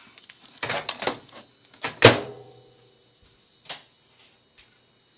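Clicks and knocks of a microwave oven door and a glass being handled: a cluster just under a second in, a sharper knock about two seconds in that rings briefly, and a small click later. The glass holds snow that has just been melted.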